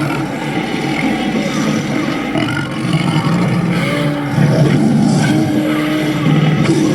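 Kaiju-style dragon monster sound effect: a continuous, loud, rough low growl with short held, wavering tones over it, getting a little louder about four seconds in.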